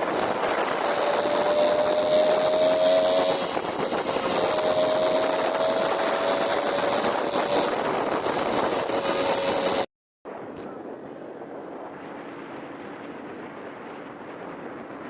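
A vehicle engine running steadily under loud rushing wind noise. After a brief cut about ten seconds in, a quieter, steady engine hum.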